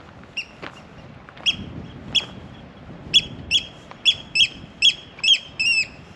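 A bird giving a series of about eleven short, sharp, high-pitched calls, quickening in the second half and ending on one longer, slightly falling call.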